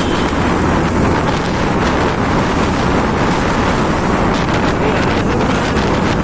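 Loud, steady wind noise rushing over the microphone of a motorcycle on the move, mixed with the bike's running and road noise.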